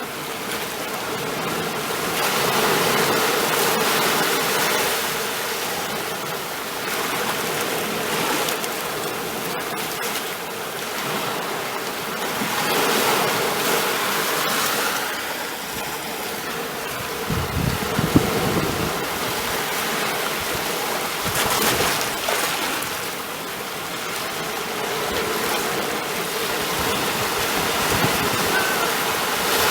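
Ocean waves breaking and washing on the shore, the surf swelling and ebbing every few seconds, with a few heavier low thuds of breaking water and a sharp click about two-thirds of the way through.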